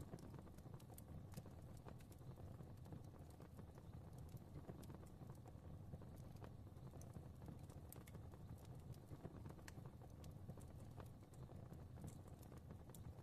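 Wood fire crackling softly: a low, steady rumble of flames with scattered small pops and snaps at irregular intervals.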